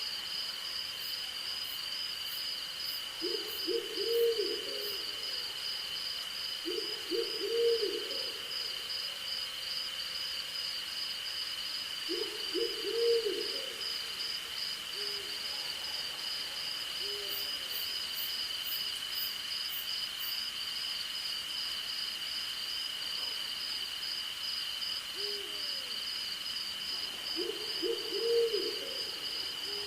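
An owl hooting four times, each call a quick run of low notes, with a few softer single hoots between them. Under it, crickets and other insects keep up a steady high chorus, one of them a fast pulsing trill.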